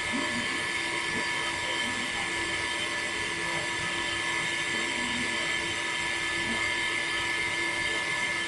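Small electric motor running steadily with a constant high whine.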